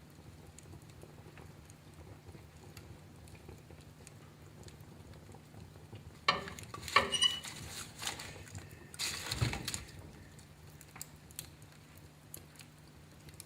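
Wood fire crackling in a fireplace: scattered faint ticks, with two louder clusters of sharp pops and cracks about six seconds in and again about nine seconds in.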